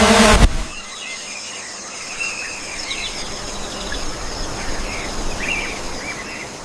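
Rainforest night ambience: insects trilling steadily at a high pitch, with scattered short chirping calls. It opens with a loud rushing noise that cuts off suddenly about half a second in.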